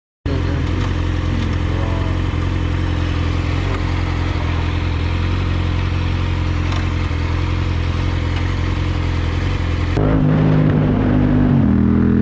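Motorcycle engine running steadily under way, with wind noise. About ten seconds in the engine gets louder and its pitch shifts.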